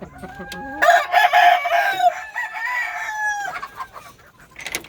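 A gamefowl rooster crows once, about a second in. It is one long call of roughly two and a half seconds, loudest at the start.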